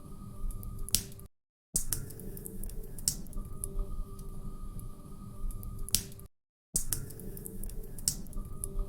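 Wood fire crackling in a fireplace: irregular sharp pops and snaps over a low steady rumble. The sound cuts out to silence for a split second twice, about a second and a half in and again near six seconds.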